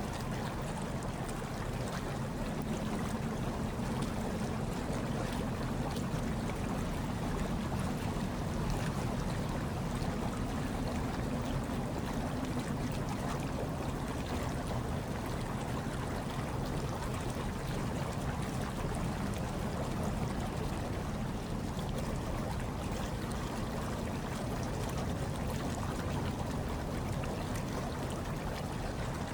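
Hot tub water churning and bubbling steadily, a deep, even rush of water with no breaks.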